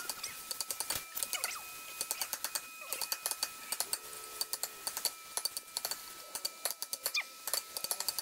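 Wooden mallet striking a chisel as it cuts a cross-shaped slot into the end grain of a turned ebony post: a quick, irregular run of sharp wooden clicks and knocks.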